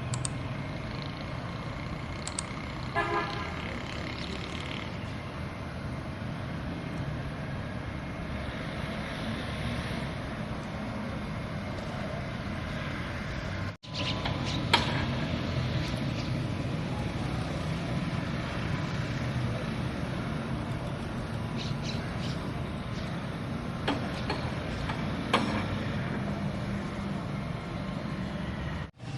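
Steady street traffic noise, with a short vehicle horn toot about three seconds in.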